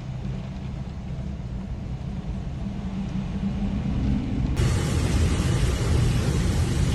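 Hurricane wind rumbling on the microphone, growing louder. About four and a half seconds in it cuts abruptly to a fuller hiss of heavy rain and wind.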